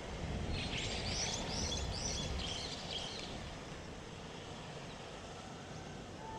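A small bird singing a short run of high, sweeping chirps for a couple of seconds over steady outdoor noise, with a low rumble underneath that fades out partway through.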